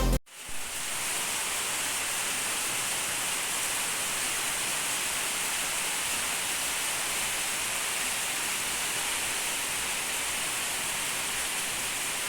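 Steady rain falling, an even hiss with no breaks, after background music cuts off right at the start.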